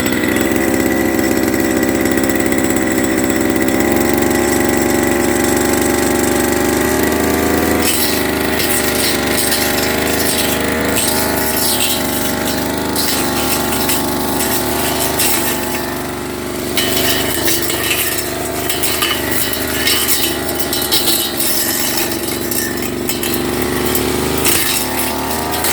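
Firman FGB389FI brush cutter's petrol engine running steadily at high speed. From about eight seconds in it sounds rougher, with scattered clatter as it cuts through grass and weeds.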